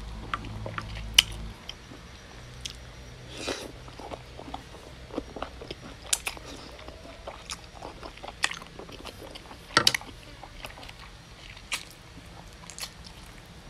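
Close-up eating sounds: a person chewing and biting goat meat, with wet mouth sounds and sharp clicks and smacks scattered irregularly, the loudest about a second in and again near ten seconds.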